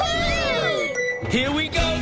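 Cartoon soundtrack music with sliding, whistle-like sound effects that fall in pitch over the first second, and a short tinkling chime.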